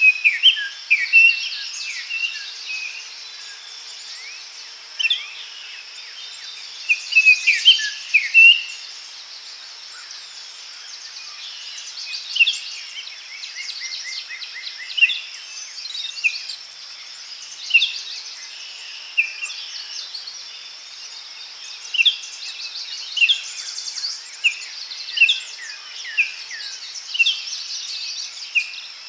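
Daytime forest ambience: several songbirds chirping and singing in short phrases about once a second over a steady high-pitched insect drone.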